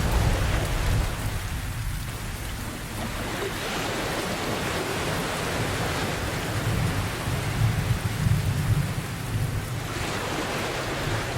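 Steady heavy rain with deep rolls of thunder, one rumbling at the start and another swelling about two-thirds of the way through.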